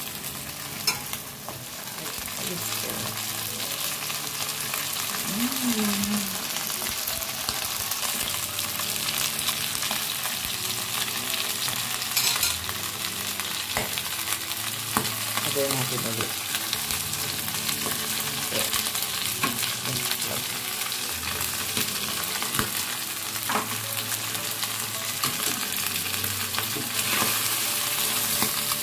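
Batter-coated oysters and egg sizzling and crackling steadily in hot oil in a wok, stirred with wooden chopsticks that give a few sharp knocks against the pan.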